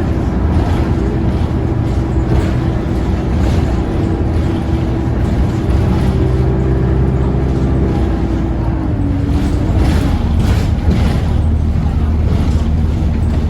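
ADL Enviro 200 Dart single-decker bus engine running loud. A whine in it drops in pitch and fades about nine seconds in, and the low engine note grows stronger near the end.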